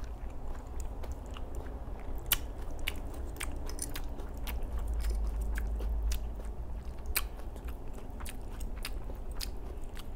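Close-miked chewing and wet smacking of a mouthful of food, with sharp mouth clicks at irregular intervals.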